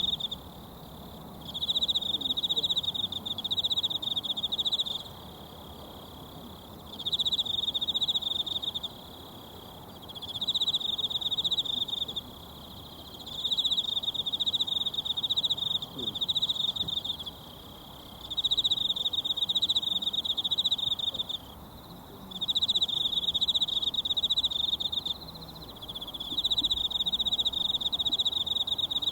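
An insect trilling in repeated bouts of two to four seconds with short pauses between them, a high buzzing pulsed song, over the faint steady murmur of a mountain stream.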